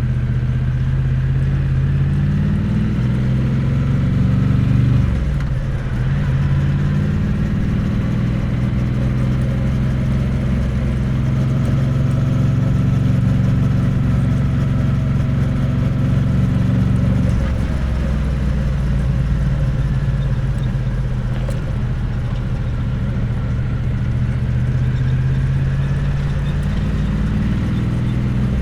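Triumph Bonneville T100 parallel-twin exhaust under way, heard close to the pipe. The revs climb, drop sharply about five seconds in, then hold steady for a long stretch. They fall off again a little past the middle and build back up gradually toward the end.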